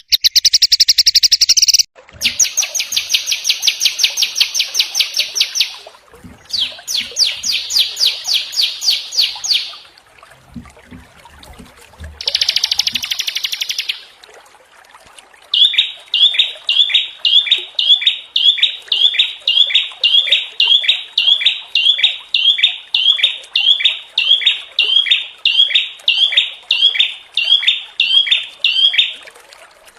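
Recorded songs of small songbirds spliced together: several bursts of fast, harsh, rattling trills in the first half, then one short chirping phrase repeated about twice a second for some thirteen seconds.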